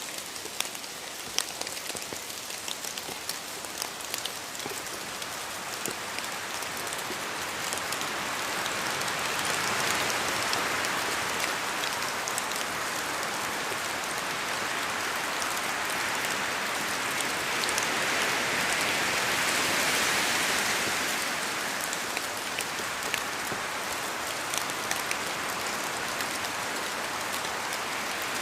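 Steady rain in a forest, with many separate drops falling from the trees and tapping. The hiss swells louder twice as the wind picks up, about a third and about two-thirds of the way through.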